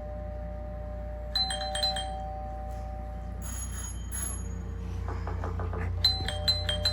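Doorbell chime sound effect: a two-note ding-dong ringing about a second and a half in, then a quicker run of chime strikes near the end.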